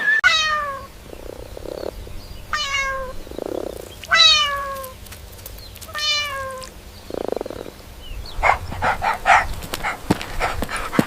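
A cat meowing four times, each meow falling in pitch, with soft lower sounds between them. In the last few seconds come a run of short rough noises.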